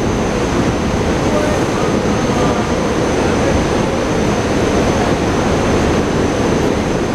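Steady rumble of a SEPTA Regional Rail electric train at the platform, with a thin high whine and crowd voices mixed in.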